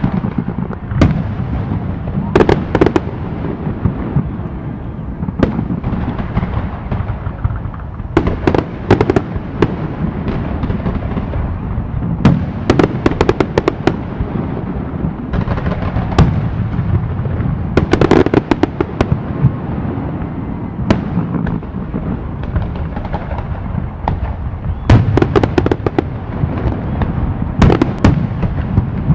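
Aerial fireworks display: shells bursting in clusters of sharp bangs and crackles every few seconds, over a continuous low rumble of booms.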